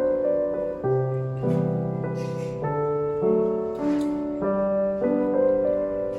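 Background piano music: a gentle melody over sustained chords, the notes changing about every half second to a second.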